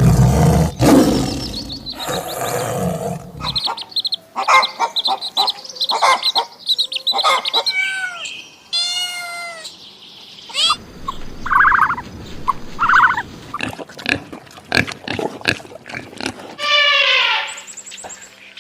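A string of different animal calls edited one after another. It opens with a loud, rough call of about three and a half seconds, followed by many shorter pitched cries from several kinds of animal.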